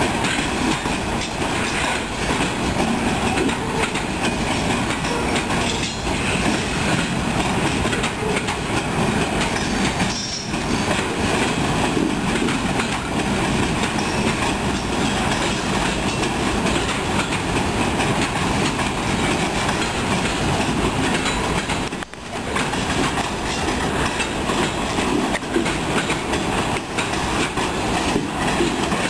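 Freight train cars rolling past, a steady rumble with wheels clacking over the rail joints. The sound drops away briefly once, about three-quarters of the way through.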